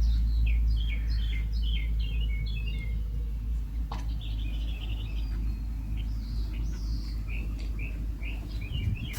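Small birds chirping in quick runs of short high notes over a steady low rumble, with a single sharp click about four seconds in.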